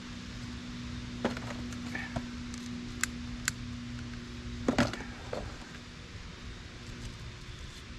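A steady low hum with a few sharp clicks and knocks, the loudest a small cluster of knocks a little under five seconds in, when the hum's pitched tone drops out.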